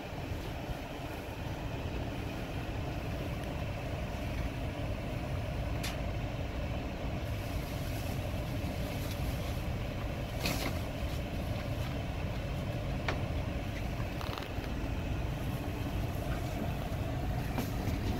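Steady low rumble of an idling car, heard from inside its cabin, with a few light clicks scattered through it.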